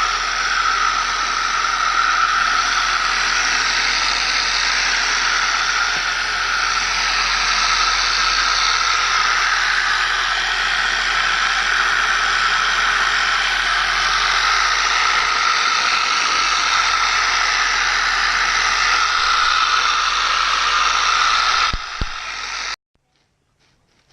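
Handheld electric power tool sanding or buffing motorcycle paint, running with a steady hiss-like whir. It drops a little near the end, then cuts off abruptly.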